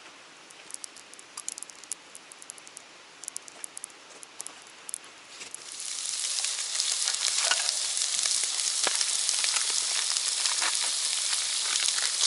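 Light scattered pops and crackles from a hot pan, then about halfway in food goes into the hot oil and a loud, steady frying sizzle starts and keeps going.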